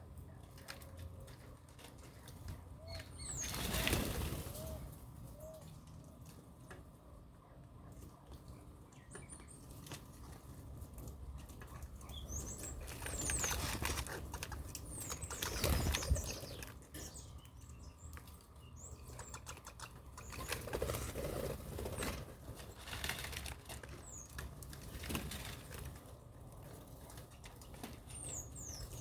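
Birds flapping their wings in several bursts of fluttering, loudest about 4 seconds in and again about 16 seconds in, with short high chirps that fall in pitch now and then.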